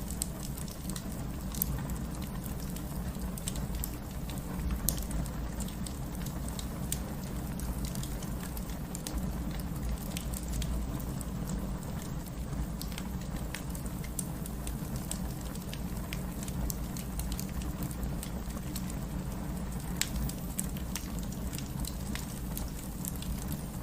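Fireplace fire crackling with scattered sharp pops over a steady low rumble of the burning, mixed with steady rain.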